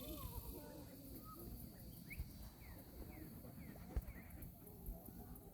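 Ducklings peeping: a run of short chirps that slide down in pitch, about two a second, starting about two seconds in. A single sharp tap comes near the middle.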